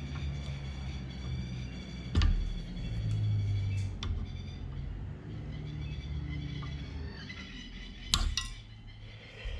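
Sharp metallic clicks and clinks of hand tools working on a UTV park brake assembly: single strikes about two and four seconds in and a close pair near the end, over a steady low hum.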